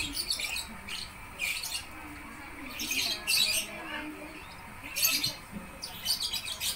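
Birds chirping: short, high calls in scattered bursts, a few groups a second apart.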